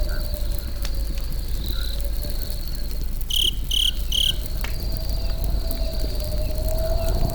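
Campfire crackling, with sparse sharp pops over a low rumble, and crickets trilling steadily behind it. Three short, high chirps come in quick succession about three and a half seconds in.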